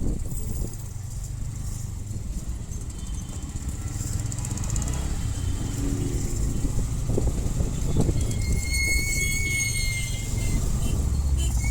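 Motorcycle on the move: steady low engine and road rumble with wind noise. A steady high tone sounds for about two seconds near the end.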